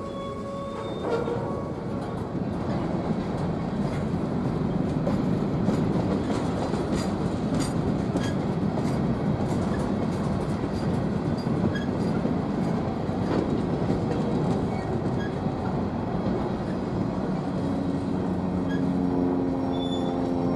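A BNSF train's cars rolling past, a steady rumble of wheels on rail with scattered sharp clicks. Near the end a steady low drone with a pitch joins in.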